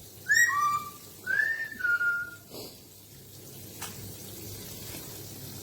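Two whistled notes: the first steps down from a higher pitch to a lower one, the second glides gently downward; then only a faint background with one soft click.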